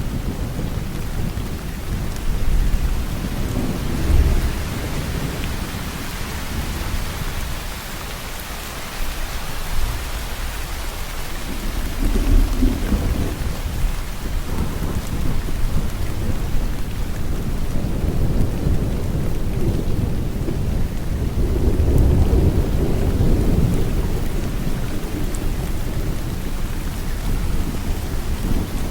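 Steady heavy rain falling, with deep thunder rumbling underneath, swelling a few seconds in, again about twelve seconds in, and longest through the second half.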